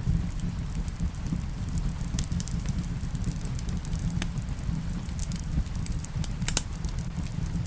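Wood fire crackling in a fireplace, with scattered sharp pops over a steady low rumble and rain falling in the background.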